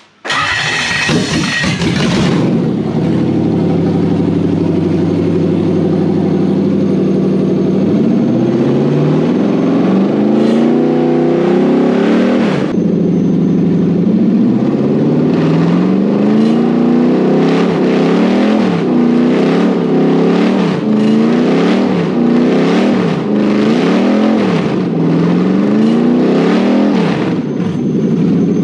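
Toyota 1UZ-FE V8 starting up with a short burst, then running loud while its throttle is worked by hand. The revs rise and fall slowly at first, then in quick blips about once a second.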